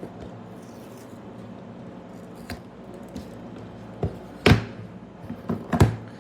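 Hands working an iPhone box and its packaging: a few short, sharp taps and knocks with faint rustling, the loudest about four and a half seconds in and just before the end.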